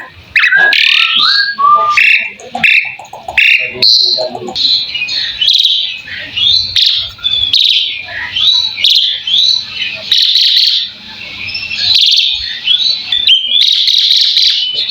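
Asian pied starling (jalak suren) singing a fast, unbroken stream of varied chirps, whistles and short rising squeaks. Its song is full of notes mimicked from other birds.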